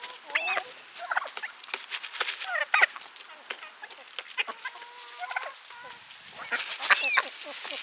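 A flock of hand-fed backyard ducks and chickens calling and squabbling up close: short, quickly gliding calls overlapping, with many sharp clicks among them.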